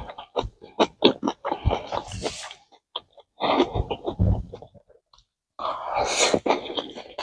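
Close-miked chewing and mouth noises of a person eating grilled pork belly and rice: irregular wet smacks and clicks, with a longer noisy, breathy rush near the end.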